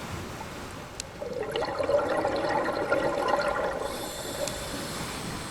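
Ocean wave washing up the beach: a rush of water swells about a second in and fades away over the next few seconds.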